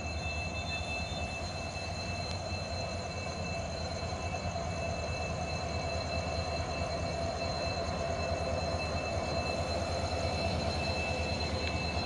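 WDP4D diesel locomotive running, a steady low engine hum with steady high-pitched whine tones over it, slowly growing louder.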